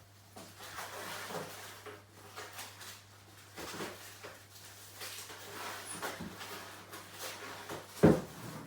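Bosch free-standing dishwasher being handled: racks sliding and rattling, with one loud knock about eight seconds in.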